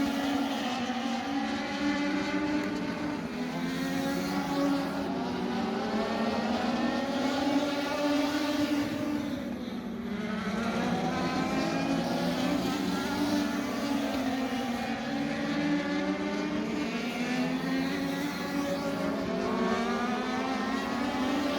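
Legends race car's Yamaha motorcycle engine lapping a short oval. The engine note climbs and falls over and over, every few seconds, as the car accelerates and backs off, and it drops lower and softer about halfway through.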